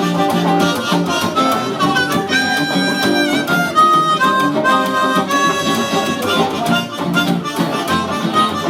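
Live band playing an instrumental break: a lead instrument plays a melody in long held notes over a steady, repeating bass and guitar rhythm.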